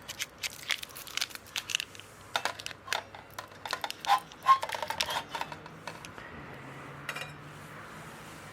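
A quick run of light clicks and metallic clinks from small metal parts being handled, some ringing briefly, easing off after about five seconds with one last short cluster of clicks near the end.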